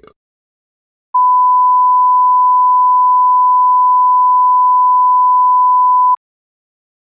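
A single electronic beep: a pure 1 kHz sine tone, the standard test-tone or censor-bleep pitch, starting about a second in, held steady for about five seconds and cutting off sharply.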